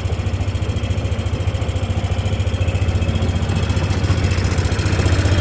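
Engine of the vehicle making the slow drive-by, running steadily at low speed with a fast, even pulse, getting slightly louder near the end.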